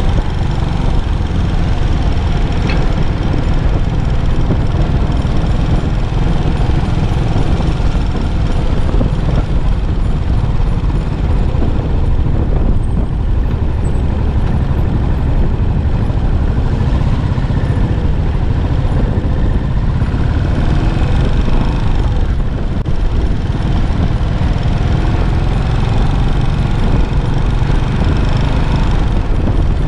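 Yamaha SR400's air-cooled single-cylinder four-stroke engine running through its stock muffler, with a steady low exhaust note whose pitch drifts up and down slightly a few times.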